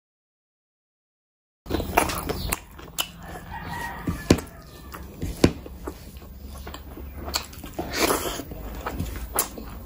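Silent for about the first second and a half, then close-miked eating sounds: wet mouth smacks, lip clicks and chewing of chicken biryani eaten by hand.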